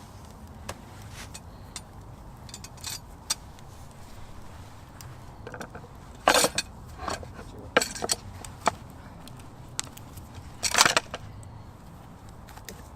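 Scattered metallic clinks and knocks of a Dutch oven and its lid being handled, with two louder clanks about six and eleven seconds in, over a low steady background.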